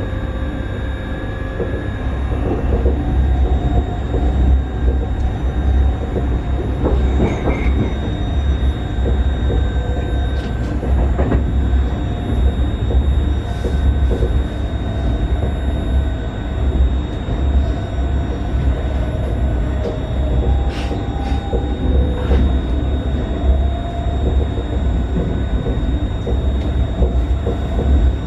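Cabin ride noise inside a Newag 19WE electric multiple unit under way: a steady low rumble of the wheels on the rails, with faint wavering tones and scattered clicks over rail joints.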